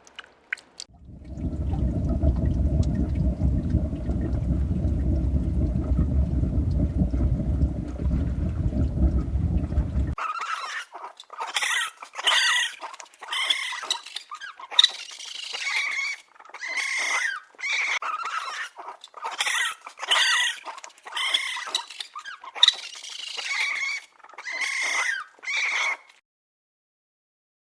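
A low rumbling noise for about nine seconds, then a long run of short, high animal calls that rise and fall in pitch, each about half a second long, stopping shortly before the end.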